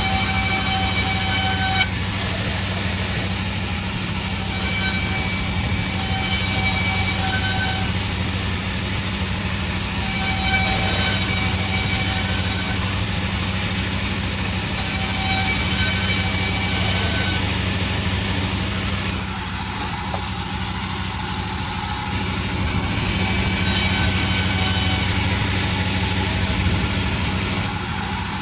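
Sawmill running steadily while its saw blade cuts a large bayur log. A constant low engine hum lies under a higher whine that comes and goes every few seconds.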